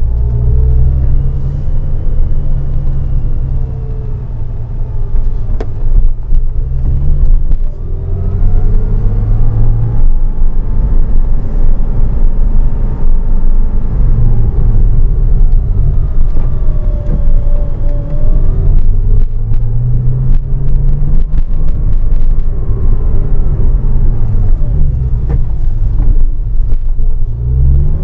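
Porsche flat-six engine and road noise heard from inside the cabin, its pitch rising and falling several times with acceleration and gear changes. The recording is broken up by sharp clicks and crackles, most of them in the second half: the GoPro Hero3's audio crackling fault, still present on firmware 2.39.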